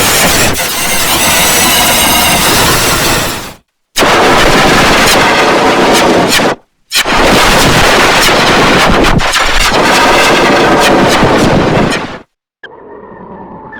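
Three long, very loud, harsh farm animal calls, heavily distorted, with short breaks between them. A quieter, lower call begins near the end.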